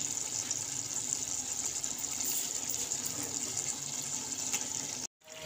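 Curry masala and yogurt base sizzling steadily in a pot over a low flame. The sound cuts off abruptly near the end.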